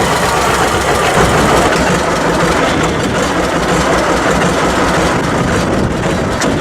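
1954 John Deere 60 tractor's two-cylinder engine running steadily at idle.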